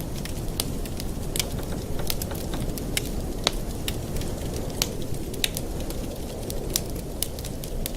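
Wood fire in a fireplace crackling: sharp, irregular pops and snaps over a steady low rush, the strongest pop about three and a half seconds in.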